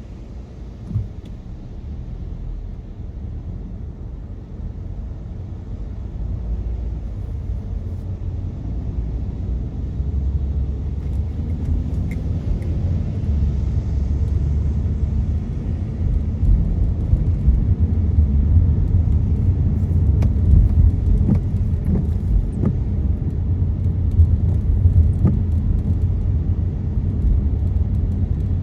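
Car cabin road and drivetrain rumble while driving, a steady low drone that grows gradually louder, with a few faint light taps.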